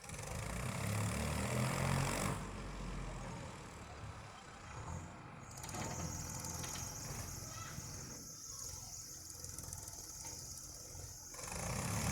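Tractor engine running, with a noisy outdoor background; the sound changes abruptly a few times.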